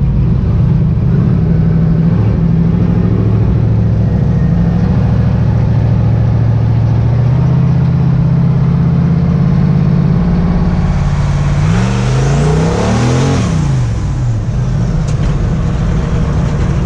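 A 500ci twin-turbo V8 in a Ford Cortina drag car runs steadily at a cruise. About twelve seconds in it accelerates hard, its note rising in several quick sweeps through the gears over a hissing rush of air. It then settles back to a steady run.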